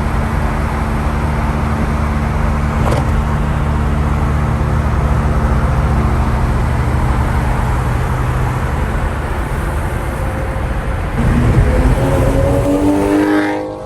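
Car engine running with a steady low drone. About eleven seconds in it gets louder, and near the end its pitch rises as it revs up, then cuts off suddenly.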